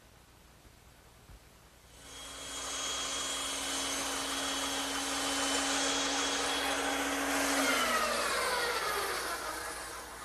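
Electric power tool motor starting up, running steadily with a whining hum for about six seconds, then switched off and winding down with a falling pitch.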